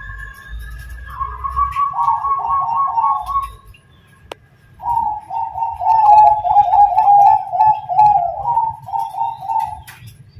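Bangkok-type perkutut (zebra dove) cooing in rolling, trilled phrases: a short phrase at the start, then after a pause a longer one of about five seconds.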